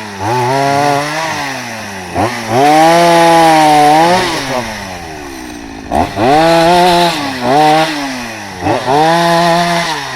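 Chainsaw cutting logs into short firewood lengths, its engine revving up to a loud high pitch and dropping back about four times.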